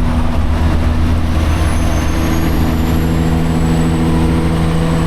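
Semi truck's diesel engine running steadily at a constant pitch, with a faint high whine drifting up and then down.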